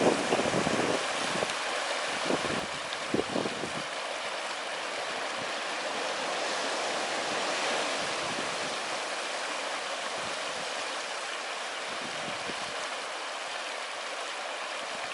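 Ocean surf washing steadily on a beach, with wind buffeting the microphone in low gusts during the first few seconds.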